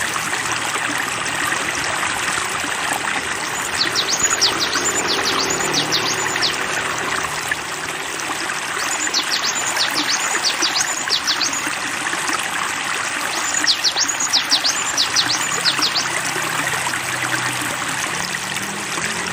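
Steadily running water, with a songbird giving three runs of quick, high, downward-sweeping whistles a few seconds apart.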